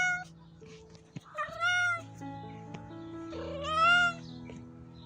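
Cat meowing: two clear meows about two seconds apart, each under a second long, with the tail of an earlier meow at the very start, over soft background music.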